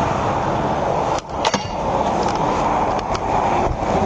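Steady rushing noise of highway traffic and road noise, with a short dropout a little over a second in and a few sharp clicks.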